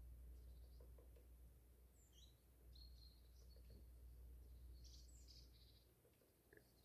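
Faint birds chirping, a scatter of short high chirps and brief calls, over a low steady rumble that drops away near the end.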